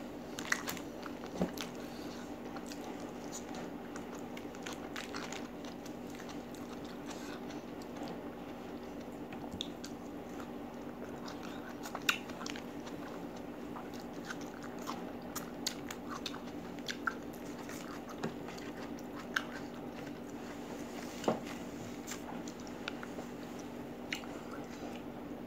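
Mouth sounds of a person eating green-chili chicken, rice and raw vegetables by hand close to the microphone: chewing and biting with scattered crunches and clicks, the sharpest about halfway through and again later. A steady low hum runs underneath.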